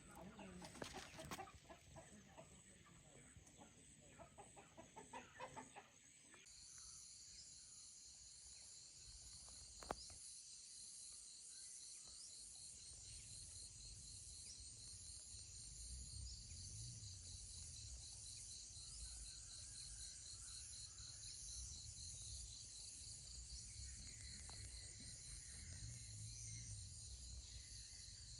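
Faint outdoor sounds: a few chicken clucks and clicks at first, then from about six seconds in a steady, fast-pulsing high insect chorus of cicadas or crickets, with a low rumble beneath.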